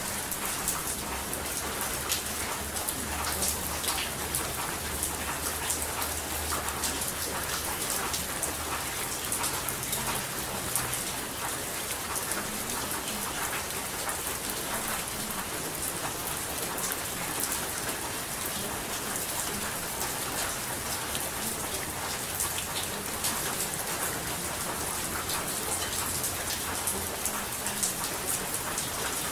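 Steady rain: a dense, even hiss of falling drops with many sharp little drop ticks, and a faint low hum underneath in the first several seconds and again near the end.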